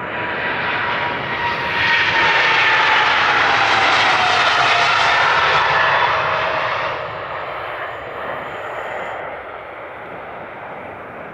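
A Boeing 777-300ER's twin GE90-115B turbofans at take-off thrust passing close by. The roar swells, peaks for a few seconds with a whine that falls in pitch as the jet goes past, then fades.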